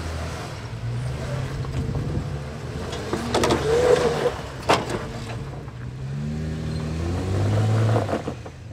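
Jeep engine running at low speed on rough ground, revving up with a rising note near the end. Two sharp knocks come about three and a half and four and three-quarter seconds in.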